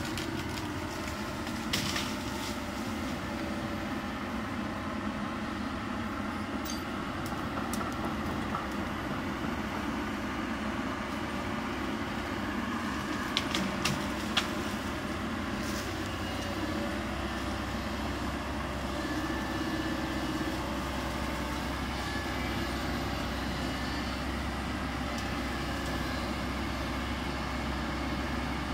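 Kobelco SK200 hydraulic excavator's diesel engine running steadily under work, with a few short sharp knocks about two seconds in and again around the middle. A steadier low hum sets in a little past halfway.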